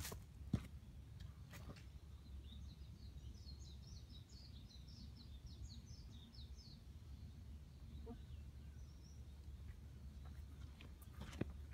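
A small songbird sings a rapid twittering run of high chirps for several seconds in the middle, over a low steady rumble. A few footsteps crunch on dry leaf litter at the start and again near the end.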